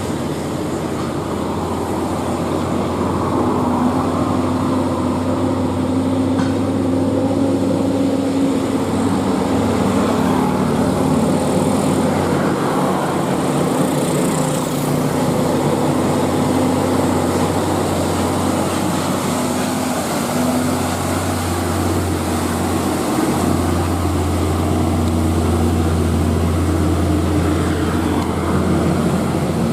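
Heavy truck's diesel engine running under load up a steep climb, a steady drone whose pitch shifts around 12 seconds in and again around 21 to 23 seconds in.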